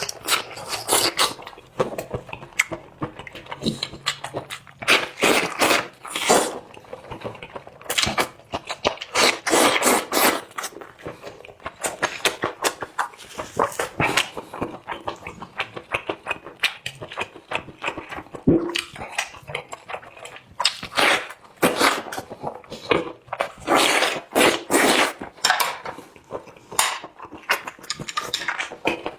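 Close-up eating sounds of a person chewing spicy squid: wet chewing and mouth smacking, a dense, irregular run of sharp clicks and squelches.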